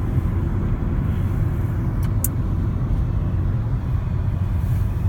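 Steady low road and engine rumble inside a moving car's cabin at highway speed. Two brief light ticks come about two seconds in.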